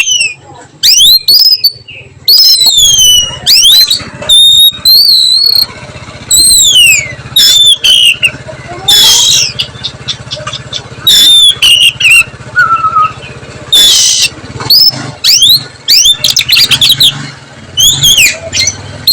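An oriental magpie-robin (kacer) singing loud whistled notes, many of them sliding down in pitch. The notes come in quick phrases about once a second with short gaps, mixed with a few harsh chattering notes. A low steady hum runs underneath.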